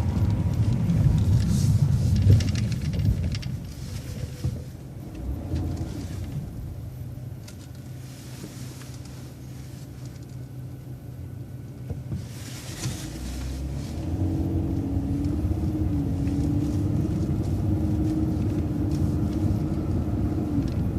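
City transit bus heard from on board, its engine and road rumble loud through a right turn, then easing off for several seconds. About two-thirds of the way through it grows louder again, with a steady whine over the rumble.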